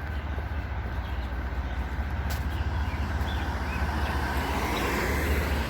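Distant road traffic, a steady low rumble with a rushing hiss that swells louder about four to five seconds in, as of a vehicle passing. A few faint bird chirps come through about three seconds in.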